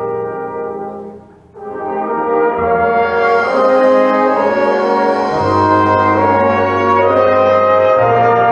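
Brass-heavy wind band playing held chords. The music drops away briefly about a second and a half in, then comes back with a loud, full chord that is sustained.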